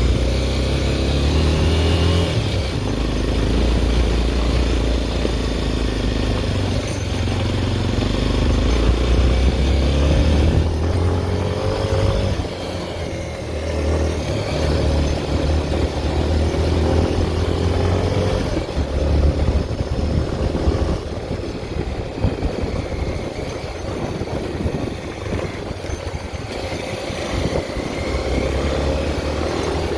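Honda XR 250 Tornado's single-cylinder four-stroke engine running under way, its revs rising and falling again and again through the ride, over a heavy low rumble.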